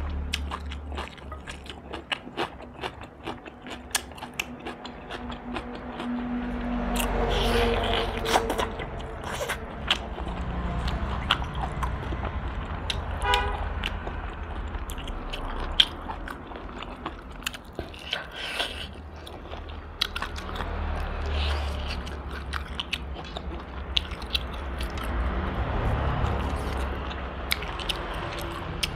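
Close-miked eating of crispy roast duck: repeated biting and chewing with many short, sharp crunches and mouth clicks.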